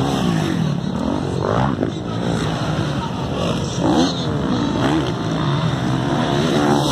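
Several motocross bikes racing, their engines revving up and falling back over and over, overlapping as they pass.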